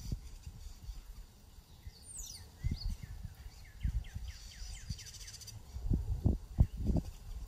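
Wild birds singing: a high call slides steeply down about two seconds in, followed by a quick run of repeated down-slurred notes lasting a couple of seconds. Irregular low thumps run underneath, loudest near the end.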